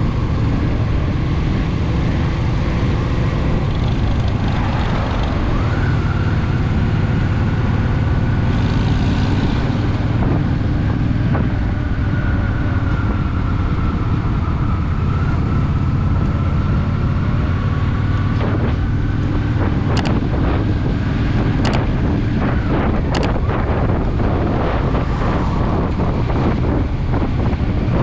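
Honda Shadow VT750's V-twin engine running steadily under way, with wind rushing over the microphone.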